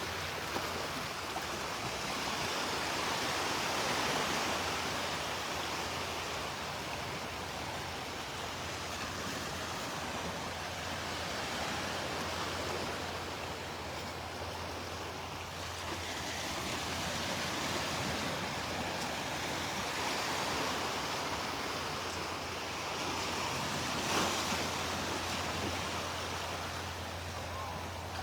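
Surf breaking and washing up the beach, the rush of water swelling and easing every several seconds.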